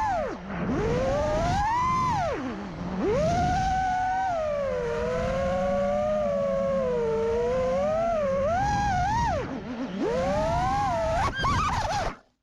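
FPV freestyle quadcopter's brushless motors (Vanny v1) spinning Gemfan props, a whine that rises and falls with the throttle, dropping sharply three times as the throttle is chopped. The sound cuts off suddenly near the end.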